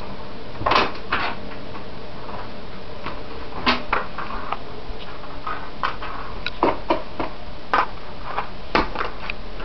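Kittens playing: irregular light clicks and taps, some in quick pairs, over a steady hiss.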